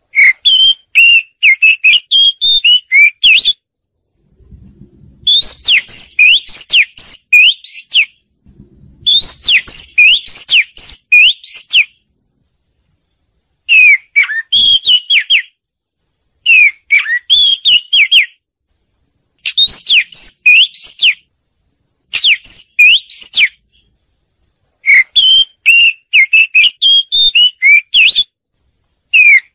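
Oriental magpie-robin singing. It sings phrases of clear, whistled notes that sweep up and down, each phrase lasting a couple of seconds, and repeats them about nine times with short pauses in between.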